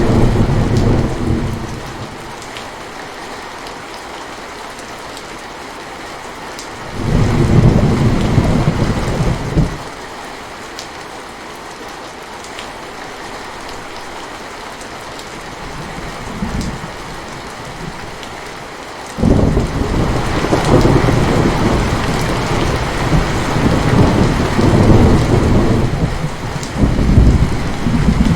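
Steady rain with rolling thunder. The thunder rumbles in bouts: at the start, again about seven seconds in, briefly around sixteen seconds, and in a long stretch from about nineteen seconds to the end.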